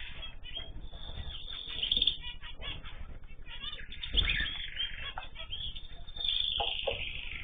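Mixed cage birds in an aviary chirping and calling over one another, with wings flapping and a low thump about two seconds in and again about four seconds in.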